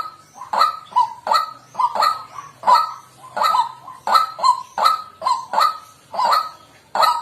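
White-breasted waterhen calling: loud, short, nasal 'kwak' notes repeated in a steady run, about two a second.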